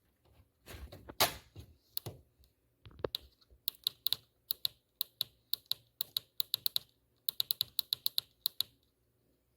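Push buttons on a Garmin GTX 330ES transponder being pressed: runs of short, sharp clicks in quick, irregular succession, after a few knocks of handling in the first two seconds.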